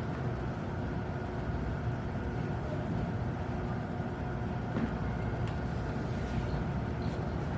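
Steady room background noise: an even low hum and hiss with faint steady tones, and a faint tick about five seconds in.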